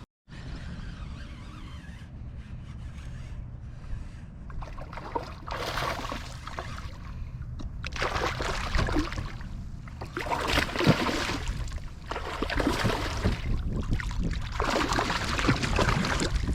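Water sloshing and splashing against a kayak hull, in surges every second or two that grow louder toward the end, over a steady low rumble.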